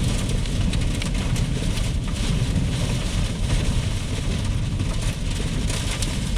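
Strong storm winds of about 60 to 70 mph and rain hitting the vehicle at the leading edge of a severe thunderstorm: a steady heavy rumble of wind with a hiss of rain and many small raindrop ticks.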